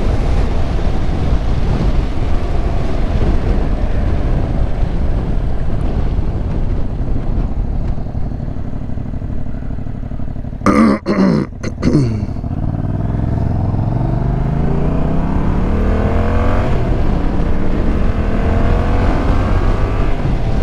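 Motorcycle engine under wind noise: the engine eases off with its pitch sinking, a short loud burst of noise comes about halfway, then the engine pulls away with its pitch rising, shifting up a gear and climbing again near the end.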